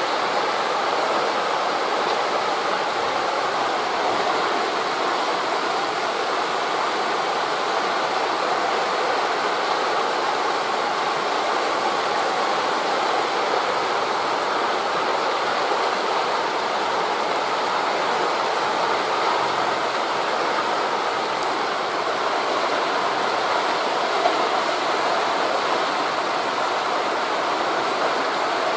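Steady, even rush of wind through forest leaves mixed with distant waves on a beach, with no separate events standing out.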